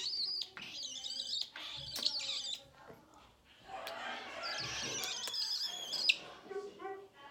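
Pet bird chattering and warbling in two long bursts of quick high-pitched notes, with a few sharp clicks among them.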